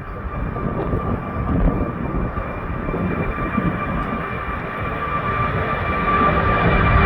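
Four-engined Airbus A380-800 jet departing: a deep rumble with a steady high whine, growing gradually louder.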